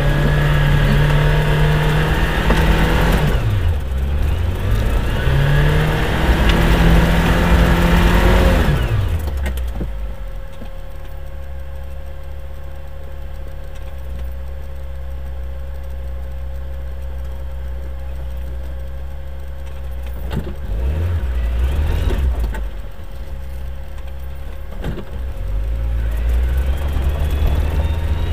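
Off-road 4x4's engine working up a steep, muddy climb: revved hard twice in the first nine seconds, then running at low steady revs, and picking up again briefly and once more near the end.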